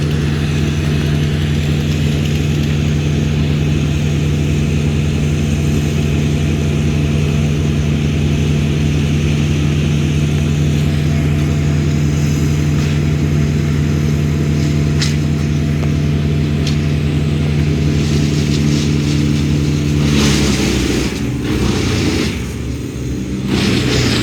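An engine running steadily at constant speed; about twenty seconds in its pitch drops and the sound turns rougher and noisier.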